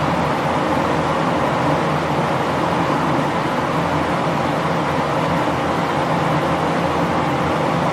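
Steady mechanical noise with a low hum, running without a break.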